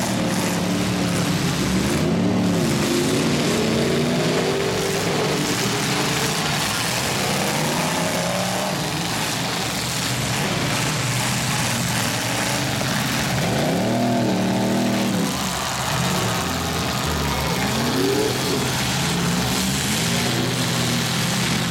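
Several demolition derby trucks' engines revving up and down, overlapping one another, with pitch repeatedly rising and falling as they accelerate and back off.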